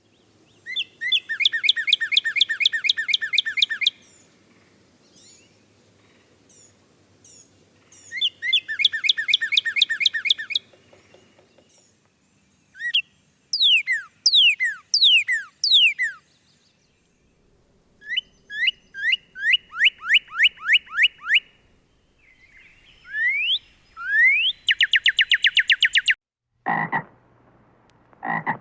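Frogs calling in a series of fast, high trills, each bout lasting a few seconds with pauses between. Near the end come lower, harsher croaks.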